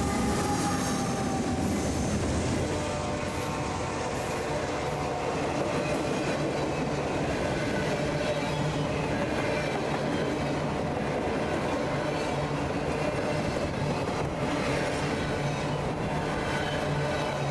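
BNSF train's railcars rolling past with a steady rumble. A high wheel squeal is heard at first and fades within the first couple of seconds.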